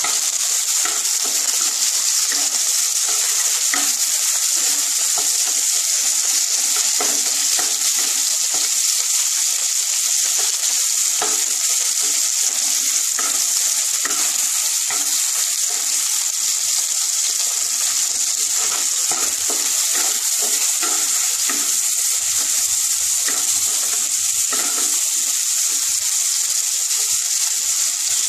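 Chopped tomatoes and whole spices frying in mustard oil and ghee in a nonstick wok: a steady sizzle, with scattered scrapes and taps of a wooden spatula stirring them as the salted tomatoes soften.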